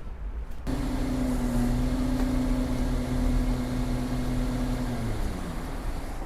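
Excavator diesel engine running at steady revs, cutting in abruptly just under a second in, then the revs falling off with a downward glide about five seconds in.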